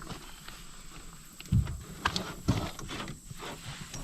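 A few irregular knocks and thumps, the loudest a dull thump about one and a half seconds in, followed by a couple of sharper clicks.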